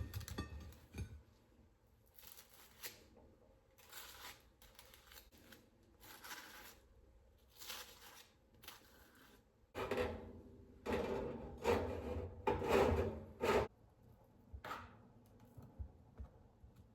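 Kitchen food-preparation noises: a series of short scraping and rubbing sounds, sparse at first and then louder and closer together for a few seconds past the middle.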